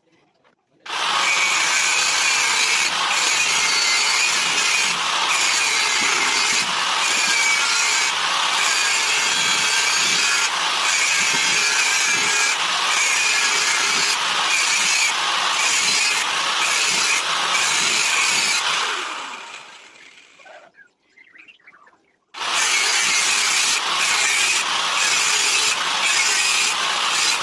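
A handheld power tool running hard under load, a bright, grating noise. About two-thirds of the way through it winds down and stops, and a few seconds later it starts again abruptly.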